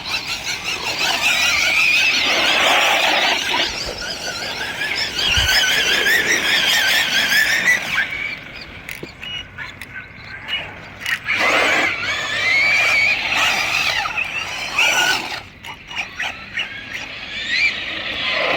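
Electric RC cars driving hard, their grippy tyres squealing in wavering, high-pitched bursts as they slide through turns. The squeal drops away briefly twice and then returns.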